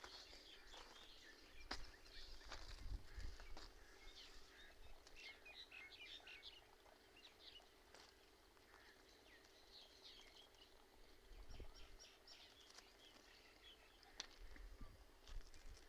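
Faint songbirds chirping: many short, high chirps, thickest around the middle, over a faint steady hum. There are a few low rumbles, about three seconds in and again near the end.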